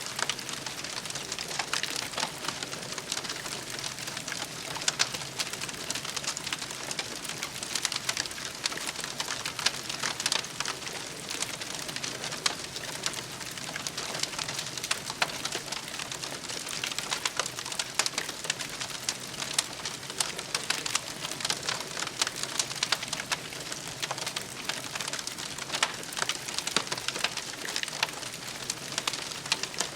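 Crackling campfire ambience: a steady, dense patter of small pops and snaps.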